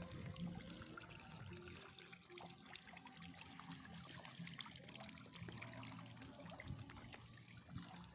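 Faint water trickling, with a low steady hum underneath.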